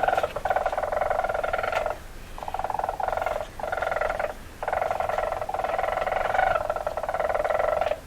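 Bird of prey's cry played as a rodent deterrent: several long, harsh, buzzy calls with short breaks between them.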